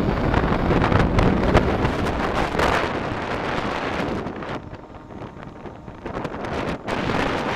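Wind rushing and buffeting on the microphone of a moving motorcycle, with road and engine noise beneath. It eases for a couple of seconds past the middle, then picks up again.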